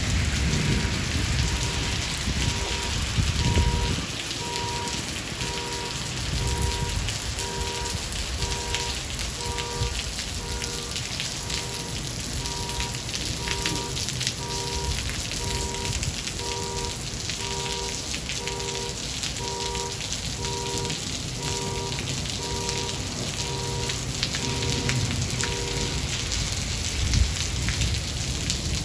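Steady heavy rain, with a low thunder rumble that fades over the first few seconds. A faint pattern of soft repeating tones pulses underneath and stops near the end.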